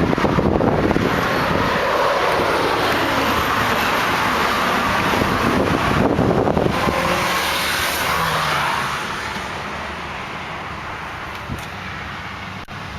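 Motor traffic going by: a loud, steady wash of road noise that swells and then eases off about nine seconds in.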